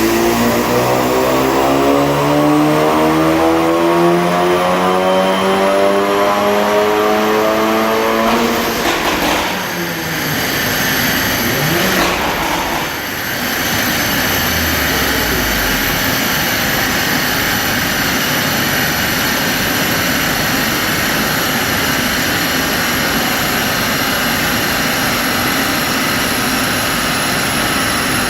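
Audi S1's turbocharged 2.0-litre four-cylinder, APR Stage 3 tuned, pulling at full load on a rolling road, its note rising steadily in pitch for about eight seconds before the throttle is lifted. After that comes a steady rush with a thin high whine that slowly falls as the dyno rollers and wheels spin down.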